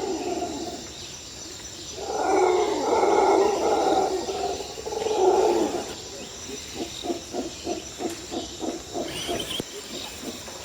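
RC rock crawler's electric motor and geared drivetrain whining in bursts under throttle, then a run of short pulses about four a second.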